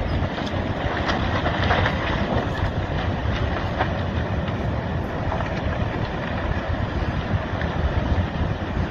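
Landslide rumbling as a mass of earth slides into the sea: a steady heavy rush with scattered cracks and snaps, mostly in the first few seconds.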